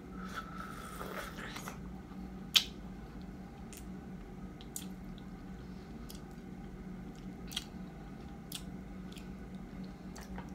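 A person biting into and chewing a small ripe baby mango close to the microphone: a wet, slurping bite in the first second and a half, then chewing with sharp wet mouth clicks and smacks about once a second, the loudest about two and a half seconds in. A steady low hum runs underneath.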